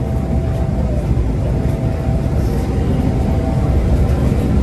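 Steady low rumble with faint humming tones inside an MTR M-Train passenger car.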